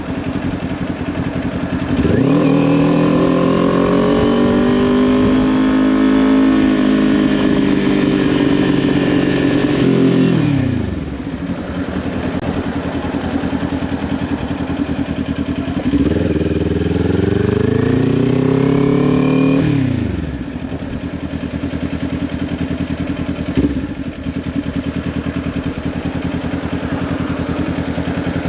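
Kawasaki Ninja 400's parallel-twin engine through a Leo Vince LV10 aftermarket exhaust, pulling away twice: the note rises under acceleration, holds and falls away, then drops back to a steady low running note. A brief knock comes late on.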